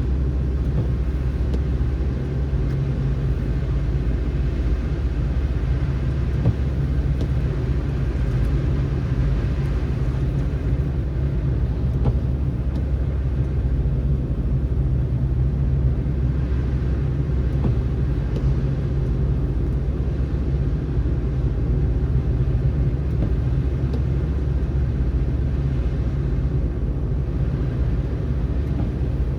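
A car driving at a steady speed on a snowy road: an unbroken low rumble of tyres and engine.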